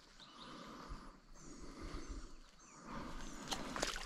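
Quiet outdoor ambience with a steady faint hiss. A small bird gives several short high chirps between about one and three seconds in, and a few sharp clicks come near the end.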